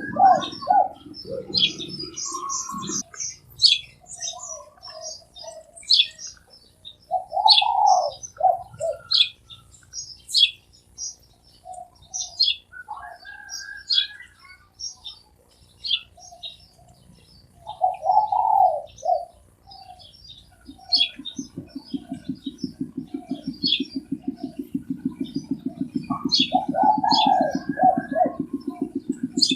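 Spotted doves cooing in short repeated phrases, one every several seconds, over steady chirping of small birds. About two-thirds in, a low, rapidly pulsing drone starts and carries on.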